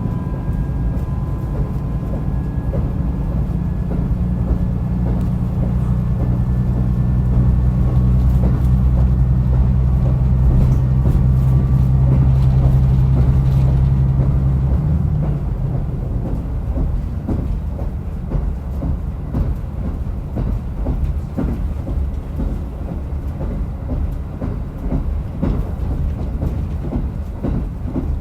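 Diesel railcar running, heard from on board: the engine pulls strongly, then throttles back about halfway through. The train then coasts with the wheels clacking over rail joints.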